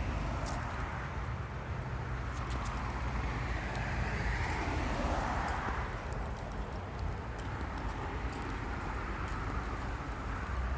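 Outdoor street sound: a car passing by, its tyre and engine noise swelling and fading about five seconds in, over a steady low wind rumble on the microphone and scattered light clicks.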